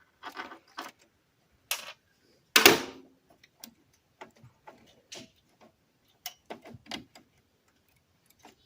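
Irregular small metallic clicks and clinks of hand tools and parts being handled during disassembly, with one louder clank about two and a half seconds in.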